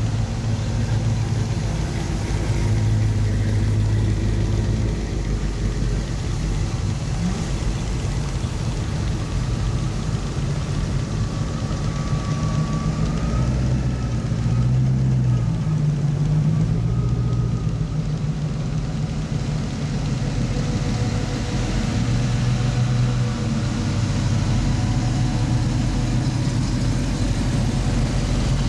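Engines of classic and custom cars driving slowly past one after another: a steady low rumble, with an engine's pitch rising and falling about halfway through.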